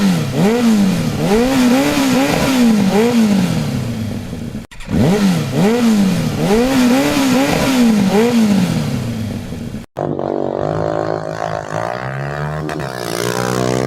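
Motorcycle engine accelerating hard through the gears, as in a drag race: the pitch climbs and drops with each of about six upshifts, heard twice in a row. From about ten seconds in, a steadier, deeper engine drone whose pitch drifts slowly.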